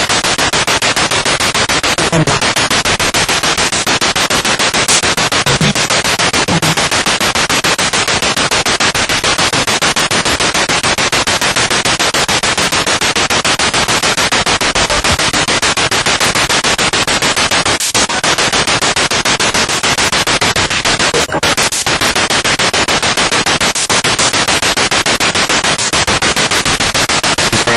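Spirit box sweeping through radio frequencies: a loud, steady hiss of static chopped into a rapid, even pulsing as the tuner jumps from station to station.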